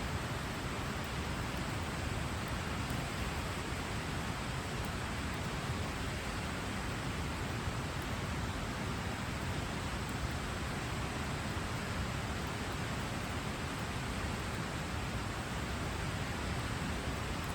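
Steady, even rushing noise with no distinct events: outdoor night ambience at a wilderness campsite.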